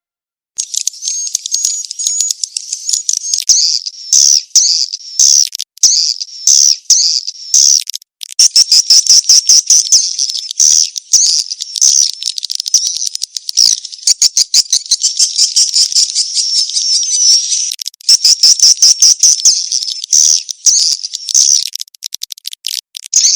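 Swiftlets twittering in dense, rapid high-pitched chirps and trills, repeated in bursts. This is a recorded swiftlet call of the 'kejar kawin' (mating-chase) type, played to lure swiftlets into a swiftlet house.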